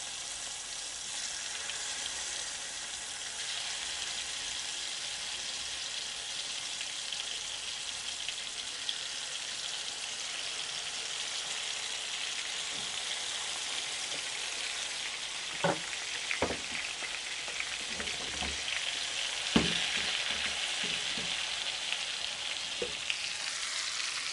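Dove breast pieces frying in melted butter in a pan, a steady sizzle that grows a little louder after about three quarters of the way through. A few sharp knocks against the pan come about two-thirds of the way in, as the pieces are tipped in and stirred.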